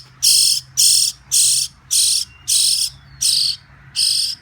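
Baby bird giving raspy, high-pitched begging calls about twice a second, over and over: the hungry nestling is begging for food.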